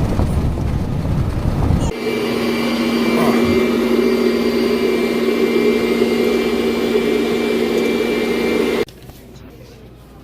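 Vehicle noise heard from inside a moving car. A low rough rumble for about two seconds gives way to a steady, even drone, which cuts off suddenly near the end.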